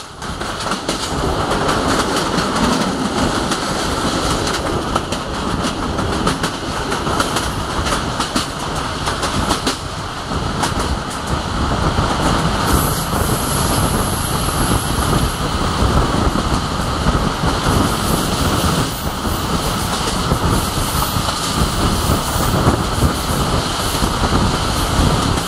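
Passenger train coaches running at speed, heard from an open carriage window: a steady rumble of the running gear with a rhythmic clickety-clack of the wheels over the rail joints.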